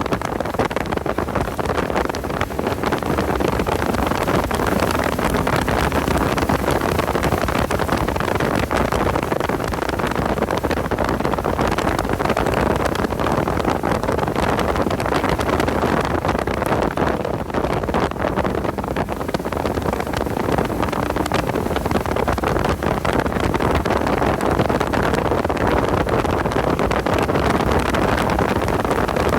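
Porsche 986 Boxster's flat-six engine running continuously at speed, with steady wind noise.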